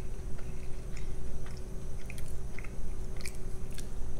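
Close-miked mouth chewing a quesadilla, with small wet clicks and smacks every half second or so.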